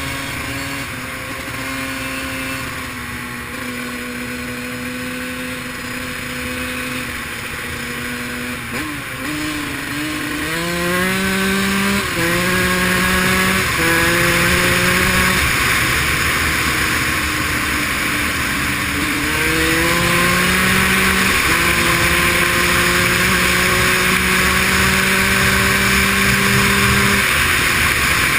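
Dirt bike engine running steadily at low speed, then from about ten seconds in accelerating through several gears, its pitch climbing and dropping at each shift. It climbs again and holds a steady cruise before easing off near the end, with a constant rushing noise underneath.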